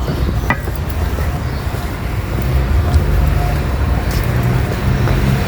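Road traffic on a town street: a steady low engine rumble of passing vehicles.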